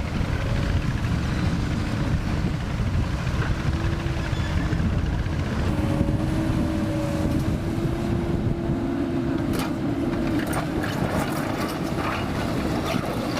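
Komatsu PC200 hydraulic excavator running, its diesel engine giving a steady low rumble with a held whine that rises slightly about halfway through. In the last few seconds a scatter of sharp knocks and clatters comes in over it.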